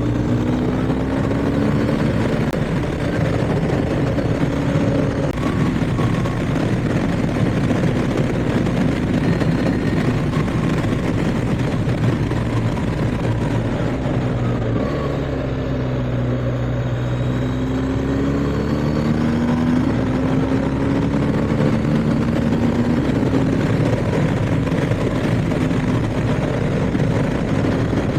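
BMW R 1250 GS boxer-twin engine running under way, with a steady rush of wind. The engine note eases down about halfway through, then climbs again as the bike accelerates.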